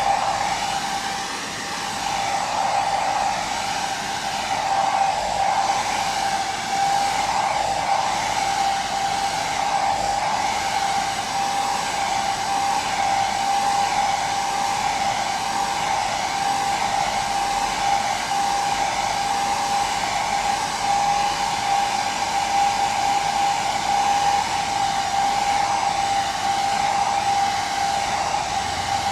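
Hair dryer running continuously: an even rushing of air with a steady motor whine, unchanging throughout.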